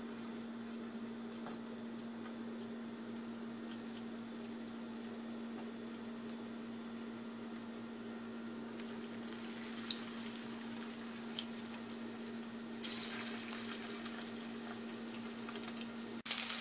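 Marinated chicken pieces sizzling faintly in hot oil in a wok as they start to deep fry, over a steady low hum, with a few light clicks. About thirteen seconds in the sizzle turns louder and brighter, then breaks off suddenly near the end.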